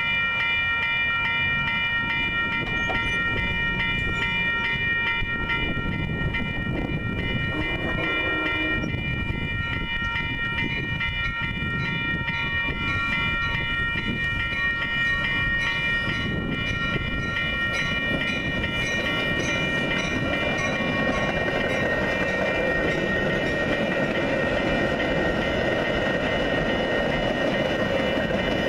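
Railroad grade-crossing warning bell ringing steadily as a commuter train approaches. From about fourteen seconds the train's bilevel passenger cars roll past close by, the wheel and rail noise growing as the bell fades.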